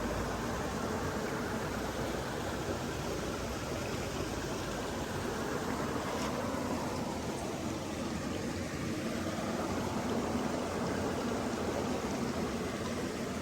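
Water of a stream flowing steadily, an even, continuous rush.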